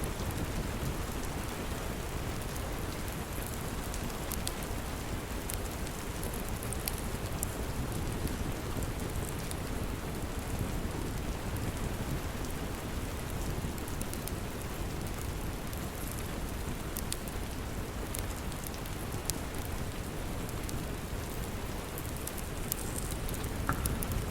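Steady rain falling, with scattered faint high ticks through it.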